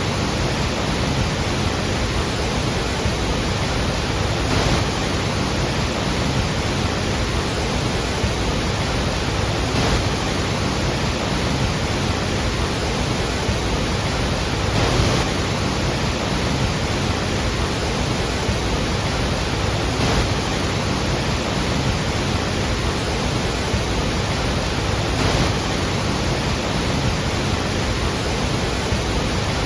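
Iguazu Falls' falling water: a steady, dense rush of water, with slight swells about every five seconds.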